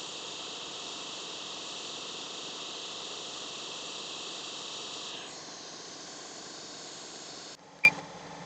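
Hot air rework station blowing with a steady hiss while reflowing an HDMI encoder chip onto the board. The hiss weakens about five seconds in and cuts off near the end, followed by a single short, sharp beep.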